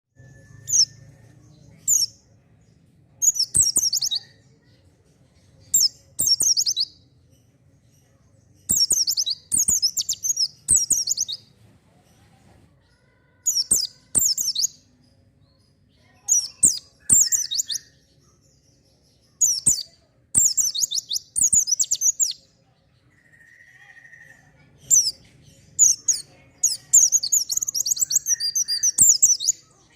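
White-eye (pleci) singing: short bursts of rapid, high twittering song, each a second or two long, repeated with pauses, then a longer unbroken run of song near the end.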